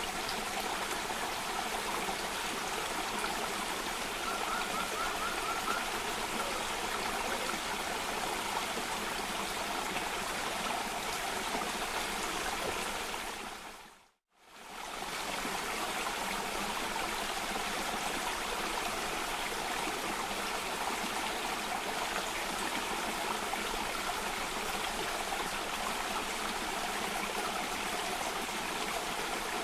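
Cascading stream water rushing and splashing steadily. About halfway through it fades quickly to silence and straight back in.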